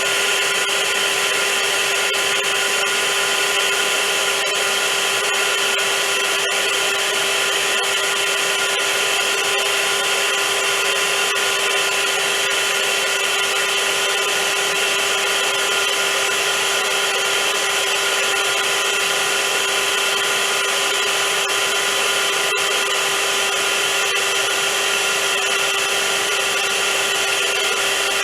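Vacuum cleaner running continuously: a steady motor whine with a constant hum and rushing air noise, no change in pitch or level.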